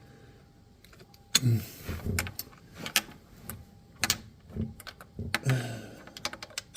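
Hand tools clicking and clinking under a car, with scattered sharp metallic ticks and a couple of low thuds.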